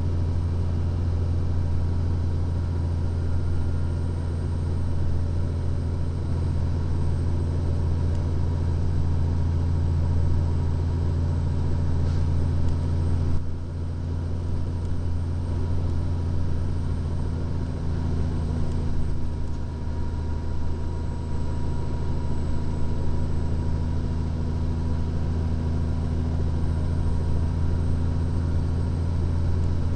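Steady low drone of a 2014 Freightliner Columbia glider tractor's diesel engine and road noise, heard from inside the cab while descending a steep downgrade. The level dips slightly about halfway through.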